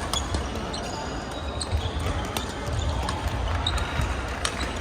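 Scattered sharp knocks and clicks of ball play in a sports hall, with no steady rhythm, over a steady low hall rumble.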